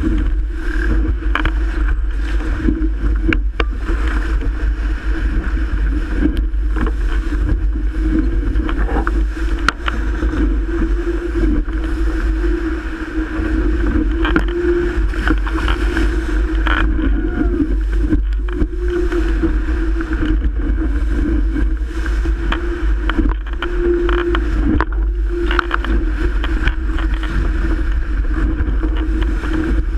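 Strong wind buffeting the microphone while a Melges 24 sailboat's hull rushes through choppy water, with frequent short slaps and splashes and a steady low hum underneath, sailing in 30-plus knot wind.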